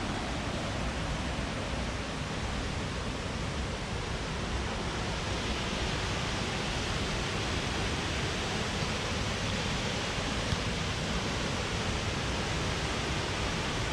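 Steady rushing of a waterfall dropping about 25 metres over a cliff, an even wash of water noise with no change throughout.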